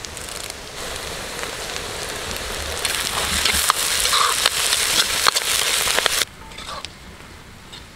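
Chopped onions, green chillies and curry leaves sizzling and crackling in hot oil in an iron kadai, with a steel ladle stirring and scraping the pan. The sizzle grows louder about three seconds in, then drops off suddenly about six seconds in.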